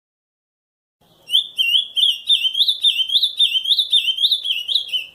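Azulão (ultramarine grosbeak) singing the 'camaquã' song type: a fast run of sharp, repeated whistled notes, about three a second. It starts about a second in and cuts off suddenly at the end.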